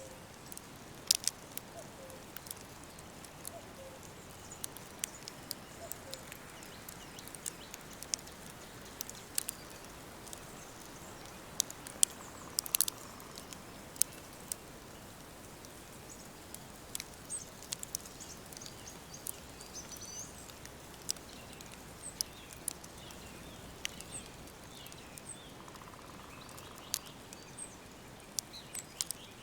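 Wood fire crackling, with irregular sharp pops over a soft steady hiss, and birds chirping faintly now and then.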